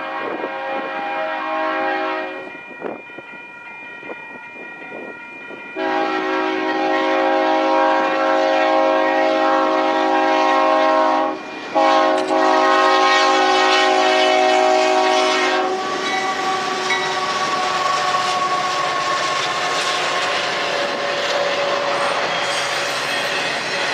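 Union Pacific diesel locomotive's air horn sounding three blasts: one ending about two seconds in, then two long ones separated by a brief break. After that the train's autorack cars rumble and clatter past on the rails.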